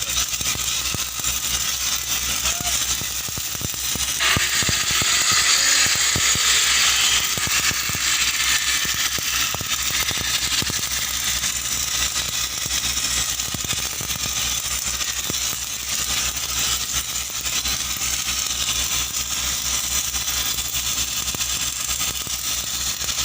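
Electric arc welding on a pipeline: the arc crackles steadily, louder from about four seconds in for a few seconds, over the steady drone of an engine running.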